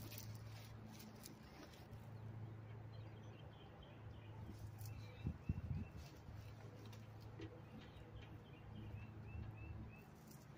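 A small bird chirping in two short runs of quick, evenly spaced notes, over a steady low hum. A few dull knocks come about halfway through, from work on the trailer roof.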